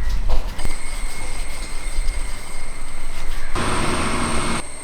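Rolling pin rolling out wheat dough on a board: a steady rumble, with a louder, noisier stretch of about a second near the end.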